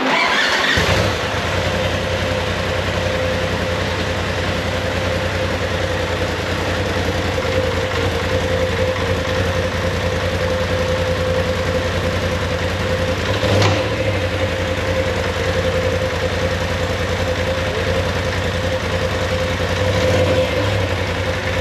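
Freshly rebuilt twin-cylinder turbocharged engine of a 2019 Polaris RZR XP Turbo catching about a second in after cranking, then idling steadily, with one brief sharper sound about two thirds of the way through. The idle is a little rough, with a lot of vibration.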